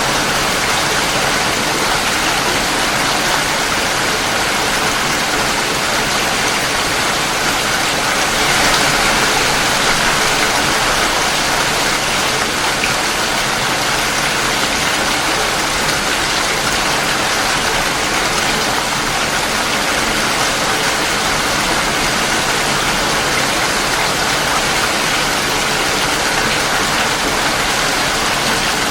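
Steady rain, a continuous even hiss of falling rain and drops, swelling slightly about nine seconds in.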